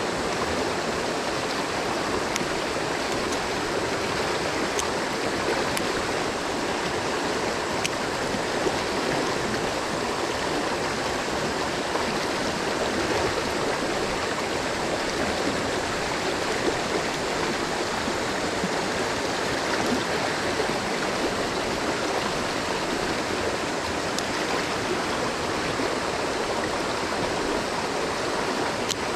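Mountain stream water rushing steadily over rocks, an even, unbroken noise.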